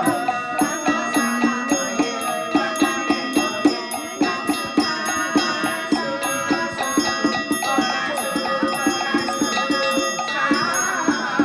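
Ritual music: a steady beat of about two strikes a second on percussion, with ringing bell-like tones and held notes over it.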